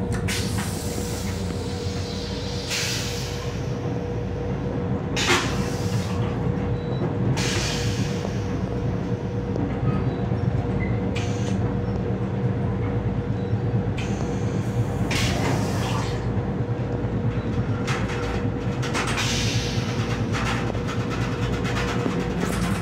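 Metro-North M7 electric railcar running along the track, heard from inside the car: a steady low rumble with a constant hum, broken every few seconds by short bursts of louder rattling noise.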